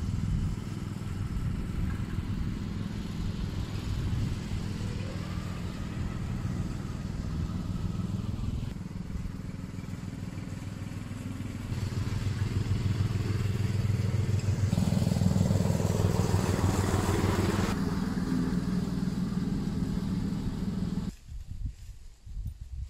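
Petrol lawn mower engine running steadily, getting louder about halfway through, then stopping near the end.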